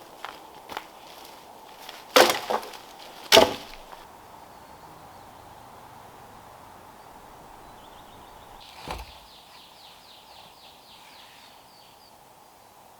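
Wood being struck: a few light taps, then two loud knocks about a second apart, and one more knock about two-thirds of the way through. Late on, a faint, high, rapid trill is heard.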